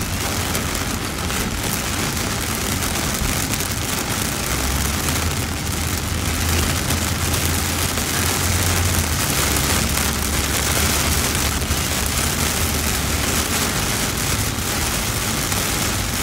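Heavy thunderstorm rain falling on a car's windscreen and roof, heard from inside the moving car as a loud, steady hiss. A deep rumble joins about four seconds in and fades out after about thirteen seconds.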